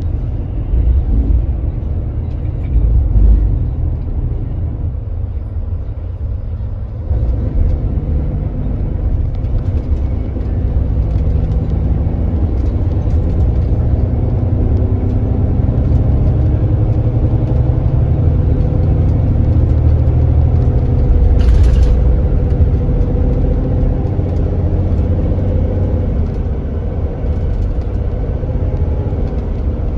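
Kia Granbird Sunshine coach's engine with road rumble, heard on board. It eases off for a moment, then pulls steadily, its pitch rising slowly as the bus accelerates. A brief hiss comes about two-thirds of the way through.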